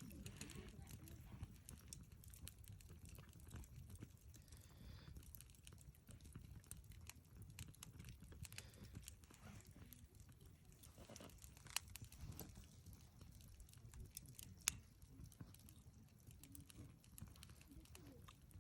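Wood fire crackling faintly, with scattered small ticks and pops over a low rumble of burning, and two sharper snaps about 12 and 15 seconds in.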